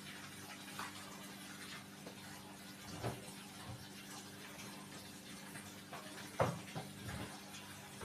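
Water running with a steady low hum underneath, and a few short knocks and clatters, the loudest about six and a half seconds in.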